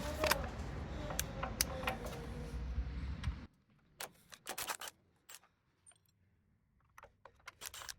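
Sharp metallic clicks and clinks of a wrench and bolts as the bolts holding a cover on a Honda F501 rototiller are taken out, some in quick clusters. Under them, a steady low background hum cuts off suddenly about three and a half seconds in.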